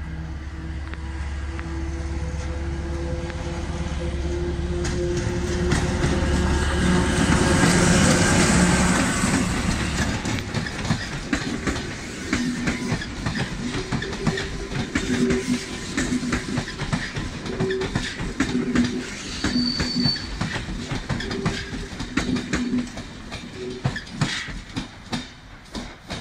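Locomotive-hauled passenger train passing close and pulling away: a deep engine hum that builds to its loudest about eight seconds in and then drops away, followed by the coaches' wheels clicking and knocking over rail joints and points, with short wheel squeals.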